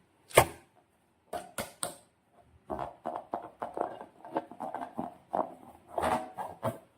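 Handling noises: one sharp knock about half a second in, then a few lighter taps. From nearly 3 seconds in there is a dense run of irregular short scraping and handling sounds.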